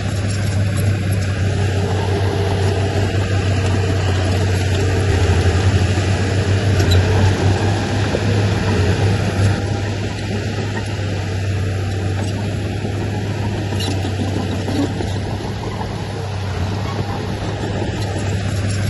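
Diesel engine of heavy earthmoving machinery running steadily with a low hum, getting a little louder for several seconds around the middle.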